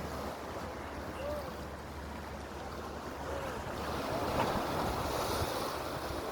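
Sea water washing and wind buffeting the microphone, over a steady low hum. The rush grows louder and brighter from about four seconds in, and two faint short chirps sound in the first half.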